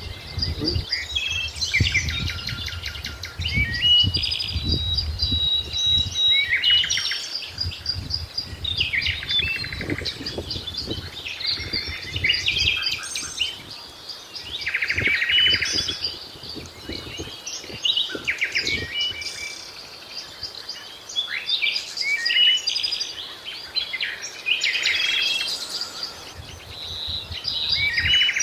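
Several songbirds singing and chirping together, their trills and calls overlapping continually. A low rumble runs underneath through the first part.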